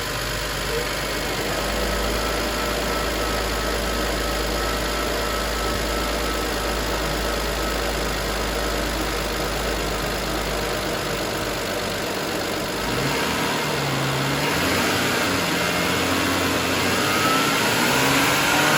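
BMW 535i's 3.0-litre twin-turbo inline-six running for a test: idling steadily, then revved from about two-thirds of the way in, with the engine pitch climbing near the end.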